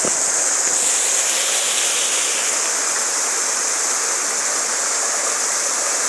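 Heavy rain pouring down hard, a loud, steady rushing hiss.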